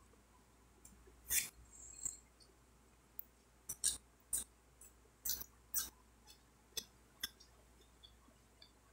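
Close-up mouth sounds of eating rice and pork by hand: about a dozen soft, wet smacks and clicks at irregular intervals as the food is chewed and the fingers are sucked.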